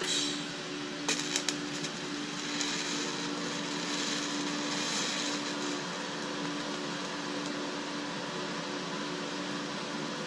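A steady machine hum, with a few sharp clicks about a second in and a stretch of hiss a few seconds in.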